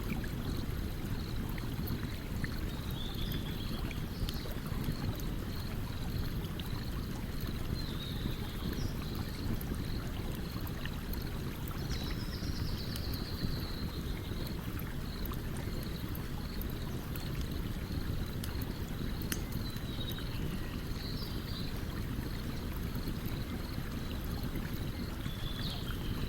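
A stream running steadily, with the light crackle of a campfire over it.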